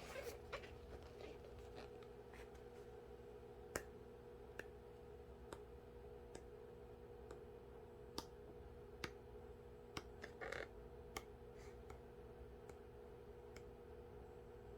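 Faint handling of small objects: scattered light clicks and taps spaced a second or so apart, with a brief rustle about ten seconds in, over a faint steady hum.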